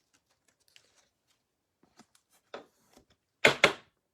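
Trading cards being handled: a few faint ticks, then short sliding, rustling strokes, the two loudest close together near the end.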